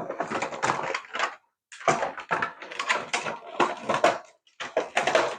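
Hard plastic scraping and clattering in several stretches, with short breaks: a screwdriver being levered under a wheel of a toy RC car to prise it off.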